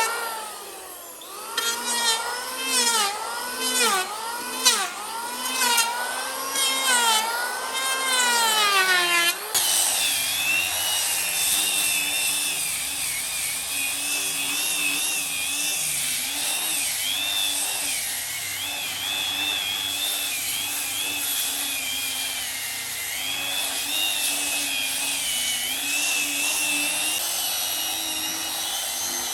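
Power tools working wood. For the first nine seconds a motor's pitch repeatedly dips and rises, about once a second, as it is pushed into the work. Then the sound changes suddenly to a steadier, high wavering whine.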